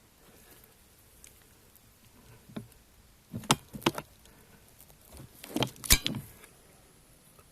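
A few sharp knocks and clatters: a single knock, then two short clusters, the louder one about six seconds in, over faint background hiss.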